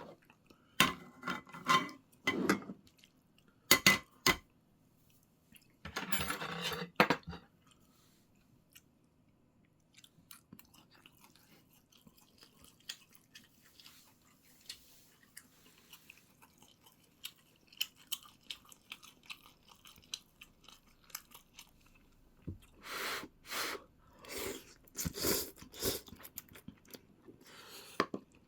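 A person eating close to the microphone: cutlery and dishes clink several times in the first few seconds, followed by quiet chewing and then louder chewing and mouth noises near the end.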